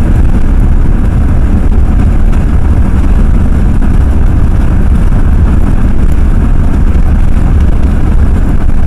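Ford F-350 pickup driving at a steady pace, heard from inside the cab as a loud, even low rumble of engine and road noise.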